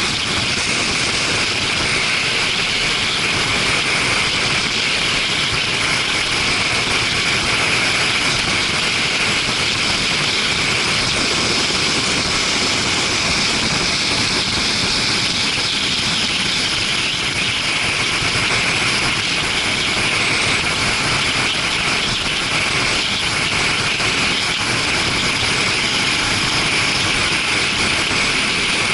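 Steady rush of wind and road noise on a moving motorcycle, heard through an action camera's microphone, with no changes or breaks.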